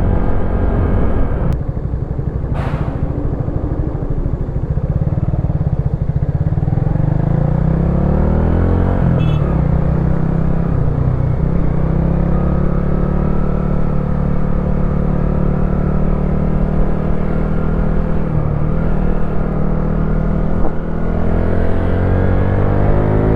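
Wolf Classic 125cc single-cylinder motorcycle engine running under way. Its pitch climbs as it accelerates about a third of the way in, holds steady, then climbs again near the end.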